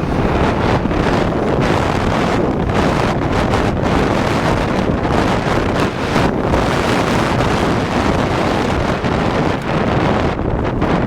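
Heavy wind buffeting the microphone, a loud, steady rush of air noise with no clear engine note.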